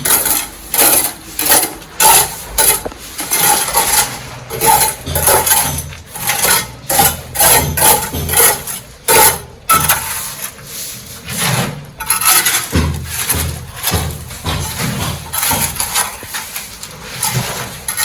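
Hammering on hard material: irregular knocks and clatter, several a second.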